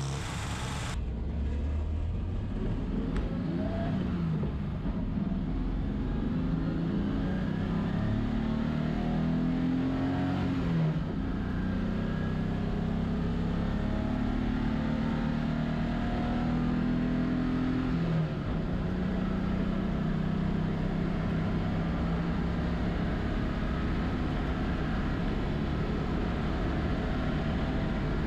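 BMW E30 engine pulling hard on track, its pitch climbing, then dropping sharply at upshifts about 11 and 18 seconds in, then running on at steady revs.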